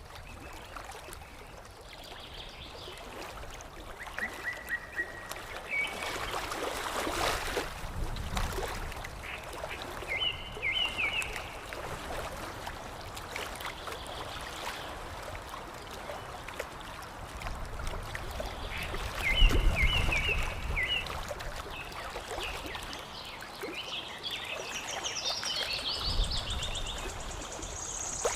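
Water lapping and trickling, with small birds chirping in short phrases every few seconds. Low rumbling swells come and go, the loudest about two-thirds of the way through.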